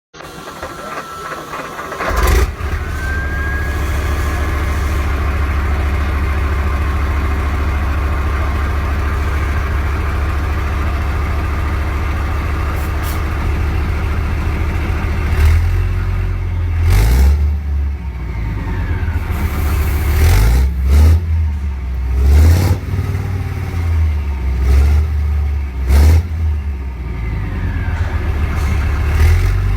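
Leopard tank engine cold-starting: it cranks for about two seconds, catches with a sharp burst, then runs steadily with a faint whine. From about halfway it is revved repeatedly, rising and falling several times.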